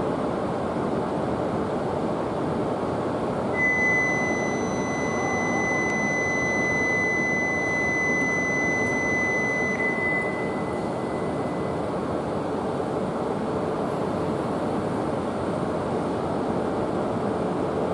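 E5 series Shinkansen train moving slowly alongside the platform, a steady rumbling running noise. A steady high-pitched tone joins about four seconds in and fades out about eight seconds later.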